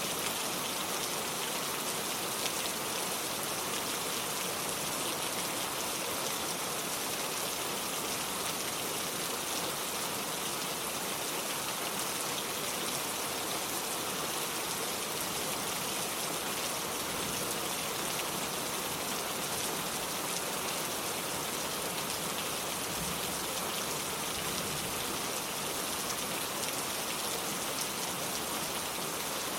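Steady rain falling: an even, unbroken hiss of many drops, with no single sound standing out.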